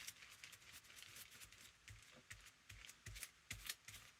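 Faint scratchy strokes of a paintbrush spreading Mod Podge over a collaged paper journal cover, short and irregular.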